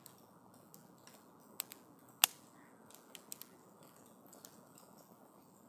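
Wood fire crackling: a faint steady rush with scattered sharp pops, the loudest a little over two seconds in.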